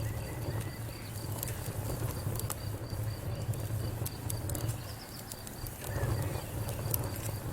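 Wood fire burning in a fireplace, crackling with scattered sharp pops over a steady low rumble, with a swell of hissing about six seconds in. A faint, rapid, evenly pulsing high chirp, like a cricket, runs underneath.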